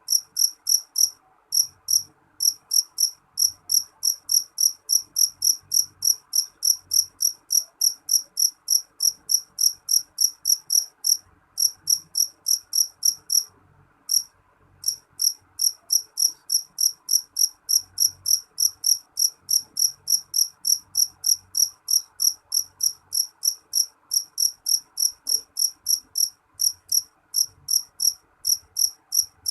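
A cricket chirping steadily, about three short chirps a second, with a brief pause about halfway through.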